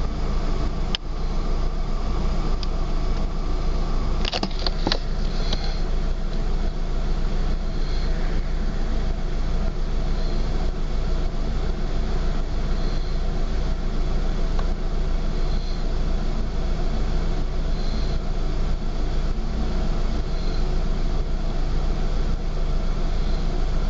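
Ford Focus Mk1 engine idling roughly, a steady low running sound, with a few short clicks about four seconds in.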